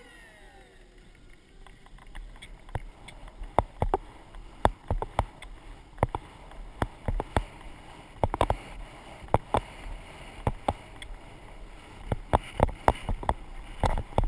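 Horse hoofbeats on the arena footing, picked up by an action camera carried on the horse or rider: quick groups of dull strikes in a rolling rhythm, like a canter, starting about two seconds in.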